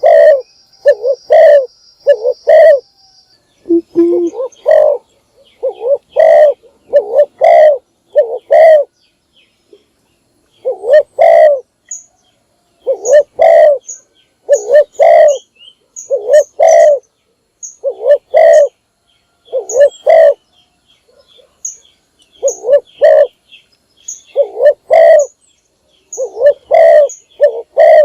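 Spotted dove cooing in repeated phrases of two to four low notes with short pauses between them, the song of a decoy dove used to call in wild doves. Brief high chirps from a small bird come in between, mostly in the second half.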